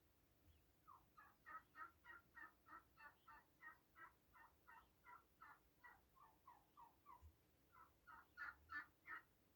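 A domestic fowl giving a long run of short, evenly spaced call notes, about three a second, with a brief break and the loudest notes near the end.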